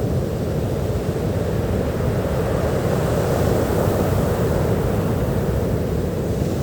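Ocean surf washing on a beach: a steady low rush of waves that swells a little about halfway through.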